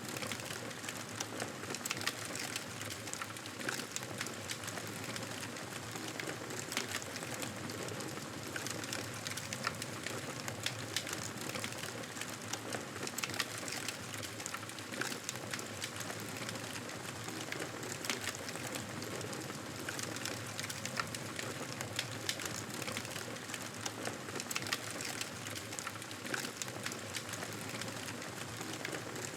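Wood fire crackling in a fireplace: a steady hiss with frequent, irregular sharp pops and crackles.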